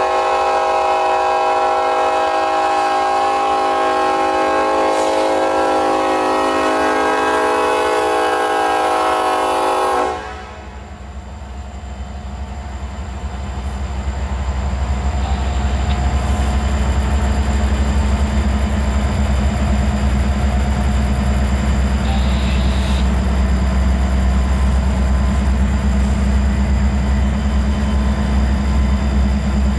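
Diesel locomotive air horn, the lead KCS SD70ACe's, holds one steady chord for about ten seconds and then cuts off suddenly. The low rumble of double-stack intermodal cars rolling past on the rails then grows louder and runs on steadily, with an occasional light clank.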